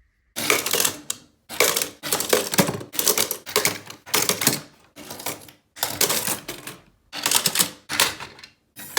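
Small die-cast toy cars rattling and clattering on a plastic slide, about nine short runs one after another with brief gaps between them.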